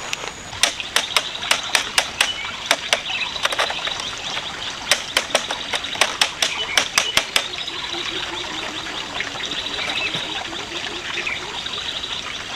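Hammer strikes on the wooden door of a chicken coop being finished, about three to four blows a second in two runs of a few seconds each, over a steady background hiss.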